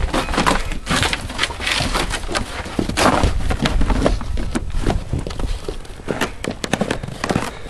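Footsteps crunching in deep snow, in irregular steps, with wind rumbling on the microphone.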